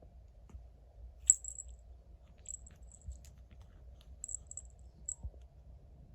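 A cat licking and washing its face with its tongue: faint, sharp little clicks, about six of them scattered over a few seconds.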